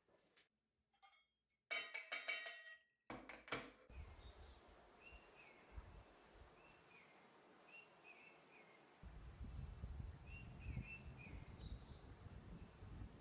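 A brief clinking comes about two seconds in. Then outdoor ambience follows, with a small bird repeating a short chirping call every couple of seconds over a soft hiss. A low wind rumble starts about nine seconds in.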